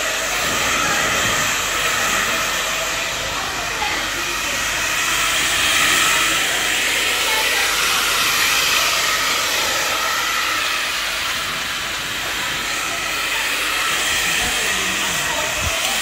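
Handheld hair dryer blowing steadily at close range: a loud, even rush of air with a faint motor whine.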